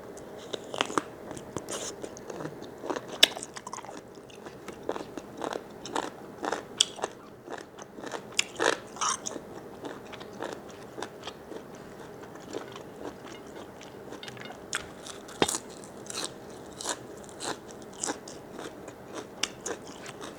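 A person biting and chewing large squid, close up: many short, irregular mouth clicks and crunches.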